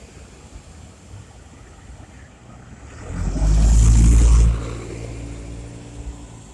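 A motor vehicle passing close by on the street: its engine swells loud for about a second and a half, then a lower engine hum carries on and fades.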